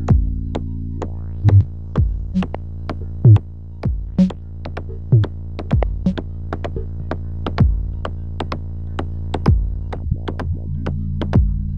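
Electronic music: a steady low synthesizer drone under a drum-machine pattern, with a deep kick about every two seconds and short ticking hits between.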